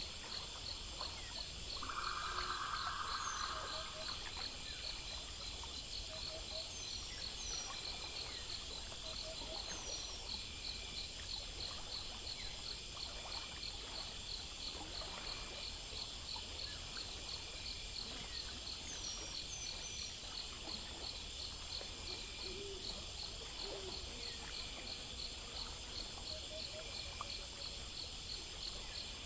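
Night chorus of crickets and other insects chirping in steady, even pulses. About two seconds in, a short buzzing trill sounds lower than the insects, and a few faint low double calls come and go.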